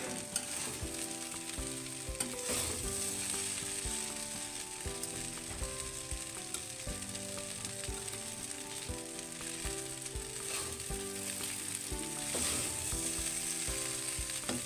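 Leftover rice stir-frying in a metal kadhai: steady sizzling, with a metal spatula scraping and knocking against the pan as it turns the rice. The strongest scrapes come about two and a half seconds in and near the end.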